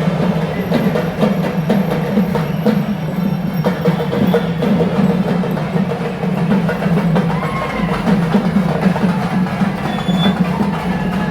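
Dense, continuous ritual drumming and percussion of the pettai thullal dance, beaten without pause over a steady din.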